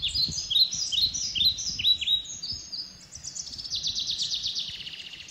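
Birds singing: a run of quick, high, descending chirps, then from about three seconds in a fast trill of repeated notes that fades near the end.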